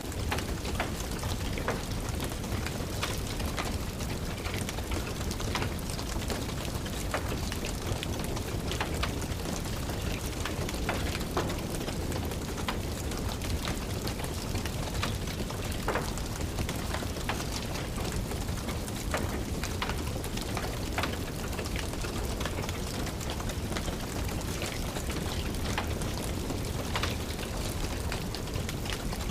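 Steady rain with irregular sharp crackles and pops from a wood fire in a fireplace.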